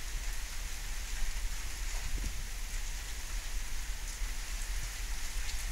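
Steady rain falling in a thunderstorm, an even hiss with a few faint drip ticks.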